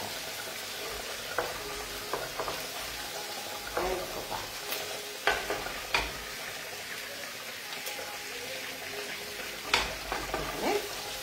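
Garlic, onion and anchovy soffritto sizzling gently in oil in a wok while a wooden spoon stirs it, with a few sharp clicks of the spoon against the pan.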